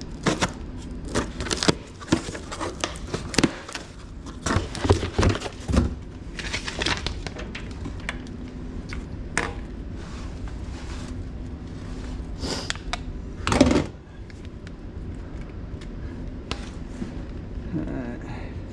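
Irregular clicks, knocks and light rattles of hands handling parts and tools, with one louder knock about 13 seconds in, over a steady low hum.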